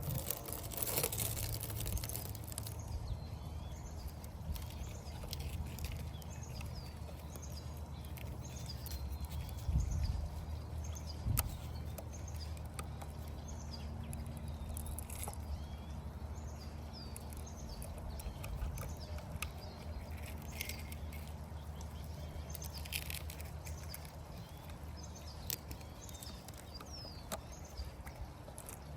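Small birds chirping over and over, about once a second, over a steady low hum, with a couple of brief knocks about ten seconds in.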